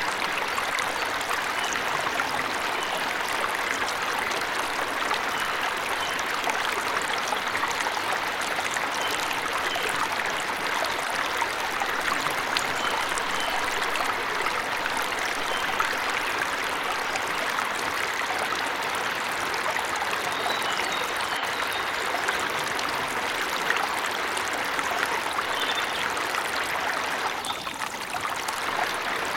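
Waterfall rushing steadily, with a few faint bird chirps now and then. The rush briefly dips about a second before the end.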